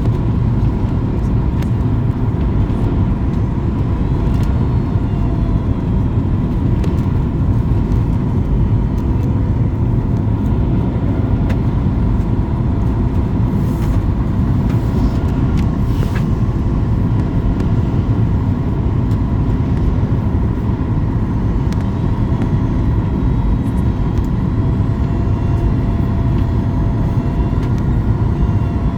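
Airliner cabin noise in flight: a steady rush of engine and airflow noise, with a faint constant hum over it.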